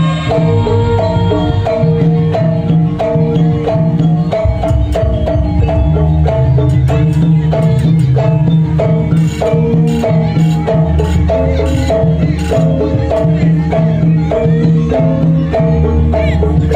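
Gamelan music for jaranan: struck metallophones play a steady, evenly repeating melodic pattern over low drumming.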